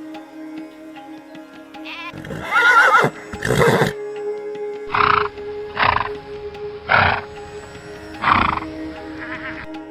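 A horse whinnying with a wavering pitch about two seconds in, then four shorter calls roughly a second apart, over soft background music.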